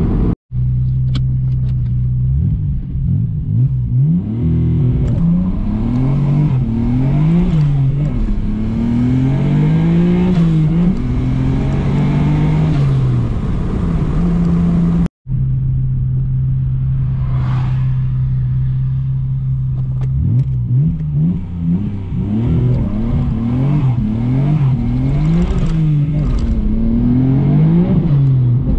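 Nissan Skyline R32 GT-R's twin-turbo RB26DETT straight-six, heard from inside the cabin, accelerating hard: the engine note climbs and drops again and again as it is run up and shifted through the gears, holds steady for a few seconds in the middle, then climbs through the gears again. The sound cuts out for an instant twice. The owner reports a large boost leak.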